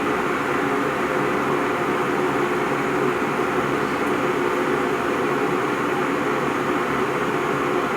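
IRIT IR-1360 electric kettle heating a nearly full load of water: a steady rushing, rumbling noise from the water as it works towards the boil.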